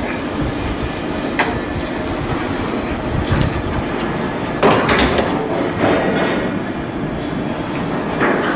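Heavy industrial work noise: a steady rumble with sharp metallic knocks and clanks at irregular intervals, the loudest cluster about halfway through.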